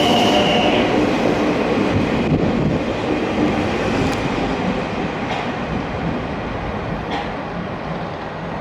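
Train moving along the station tracks: wheels rumbling on the rails, with a brief high wheel squeal that stops about half a second in and a few sharp clicks later. The rumble grows gradually fainter.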